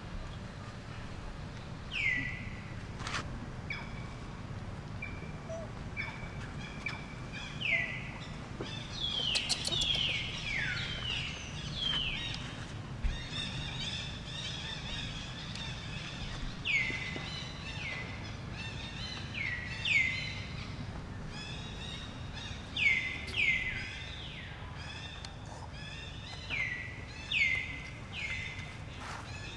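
Birds calling: many short notes, each sliding down in pitch, repeated and overlapping, growing more frequent in the second half. A low steady background runs under them, with a few faint clicks.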